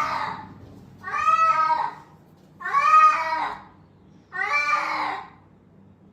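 A domestic cat meowing four times in a row, each call drawn out for about a second with short pauses between.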